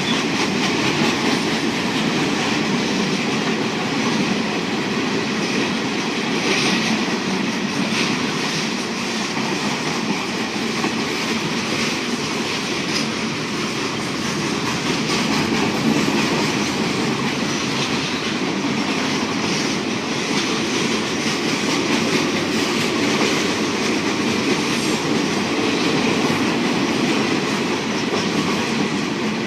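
A train rolling past on the rails: a steady rumble with clickety-clack from the wheels over the rail joints, running evenly throughout.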